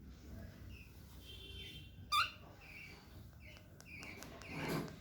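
Young cockatiel making short, repeated chirps, with one sharper, louder call about two seconds in. A louder, noisier swell comes near the end.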